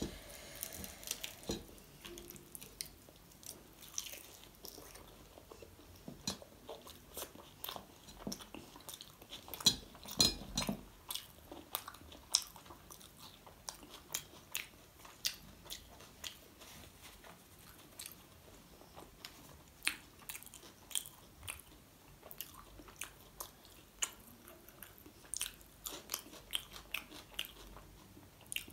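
Close-up eating sounds: a person chewing and biting into chole bhature, with many short mouth clicks and smacks that are loudest about ten seconds in.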